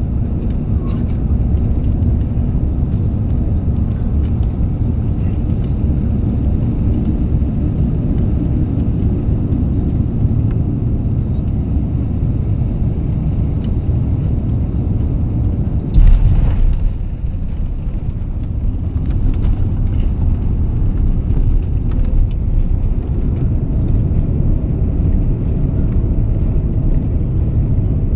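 Steady low rumble of airliner cabin noise inside an Airbus A350, with one sudden loud thump about halfway through.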